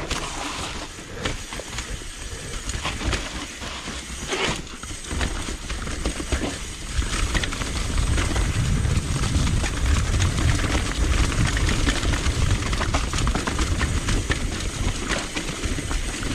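Mountain bike rolling down a rocky trail: tyres grinding over rock, with the bike's chain and frame rattling in many small clicks and knocks. Wind buffets the microphone in a low rumble that grows louder about halfway through as speed picks up.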